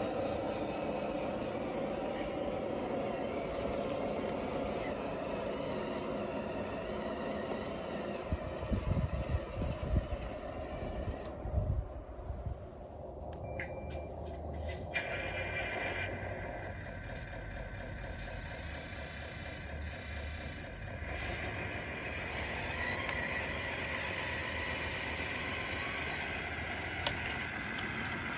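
Model bulldozer's electric drive motors and gearboxes running steadily as it tracks and pushes, with a few low thuds about a third of the way in.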